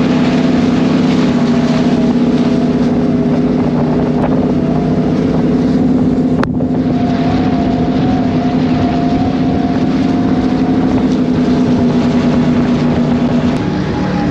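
High-performance powerboat engines running steadily at speed, a loud constant drone, with wind buffeting the microphone. A single sharp click about six and a half seconds in.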